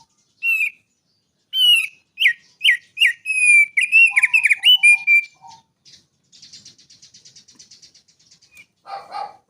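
A songbird singing: a run of sharp whistled notes and slides, then a fast high trill, and a harsher call near the end.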